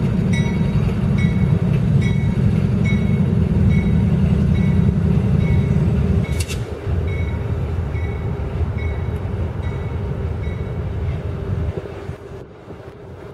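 CSX freight train passing a grade crossing: diesel locomotives rumble heavily for about the first half, then the sound drops to the quieter rolling of covered hopper cars. A crossing bell dings about twice a second through most of it.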